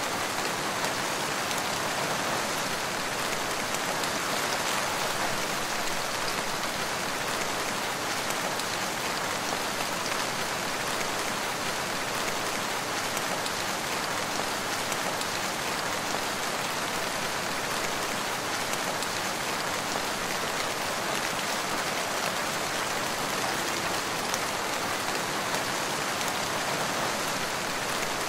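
Steady rain falling in a forest, an even hiss of many drops with no breaks or other events.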